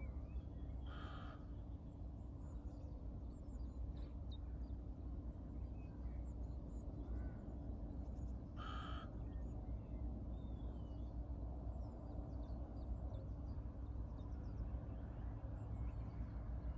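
Wild birds calling: two short harsh calls, about a second in and again about nine seconds in, with faint high chirps scattered between them over a steady low rumble.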